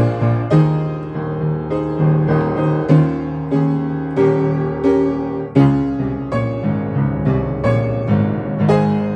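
Piano playing, a steady succession of struck notes and chords.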